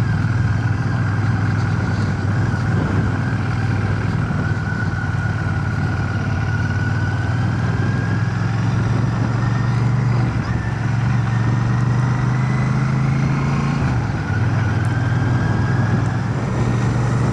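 Royal Enfield Shotgun 650's parallel-twin engine running steadily under way, heard from inside a full-face helmet with wind and road noise. The engine note dips briefly about ten and fourteen seconds in.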